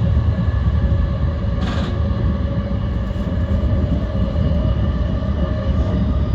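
E235 series electric commuter train running steadily at speed, heard from inside the car: a deep continuous rumble of wheels on track with a steady whine laid over it. A brief hiss comes about two seconds in.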